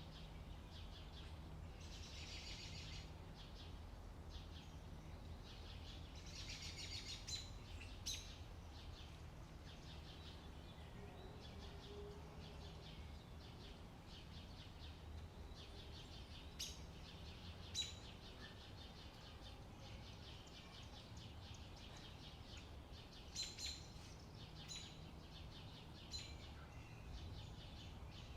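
Birds chirping and singing in short trills, with a few sharper, louder chirps, over a steady low background hum.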